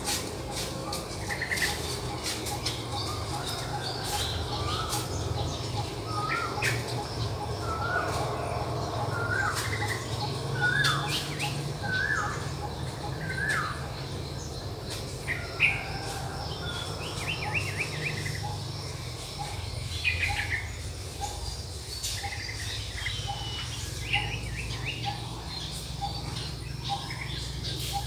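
Birds chirping outdoors: a run of short rising calls, about one a second, then scattered higher calls later on, over a steady low background rumble.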